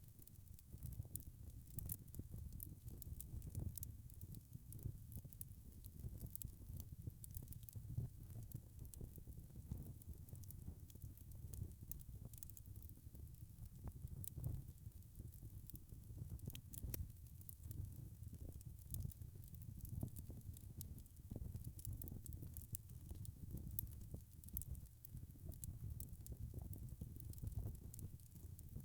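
Burning wood logs crackling in a fireplace: scattered sharp pops and snaps over a low, steady rumble of the flames.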